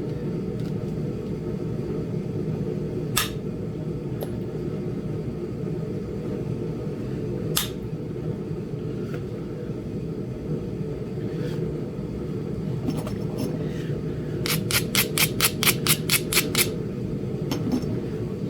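Indirect percussion flintknapping on Flint Ridge chert: two sharp strikes several seconds apart, then a quick run of about ten sharp taps, about five a second, over a steady low hum.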